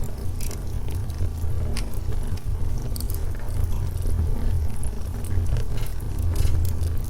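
Wood fire of burning logs crackling, with many short sharp pops scattered over a steady low rumble of the flames.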